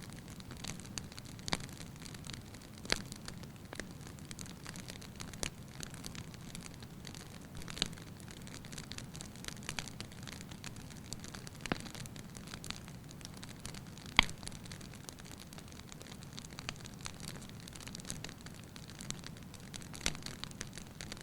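Wood fire in a fireplace crackling over a steady low hiss, with irregular sharp pops, the loudest about two-thirds of the way through.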